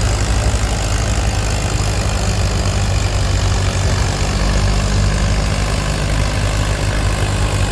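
Antique farm tractor engine running steadily with a low, even rumble.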